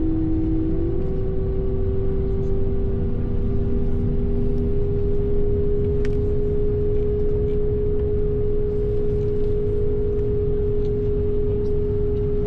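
Airbus A220 cockpit ambient: a steady low rumble with a constant engine hum on top, its main tone stepping up slightly in pitch about a second in. A faint click about halfway through.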